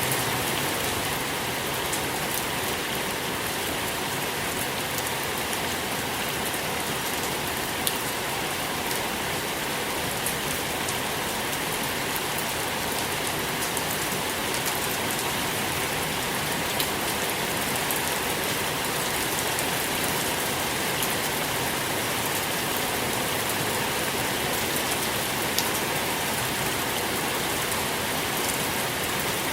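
Steady rain falling on a surface, an even hiss with occasional single drops ticking distinctly, a few times.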